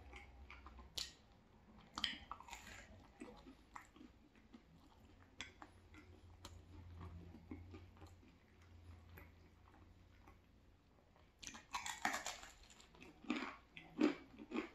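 Close-miked chewing of crispy thin-crust pizza: small wet mouth clicks and crackles of crust throughout, with louder crunching near the end.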